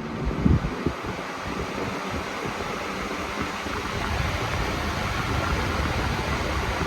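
Blue Mainstays box fan switched on and spinning up on its high setting: a steady rush of moving air that grows gradually louder as the blades come up to speed. A few low knocks come about half a second in.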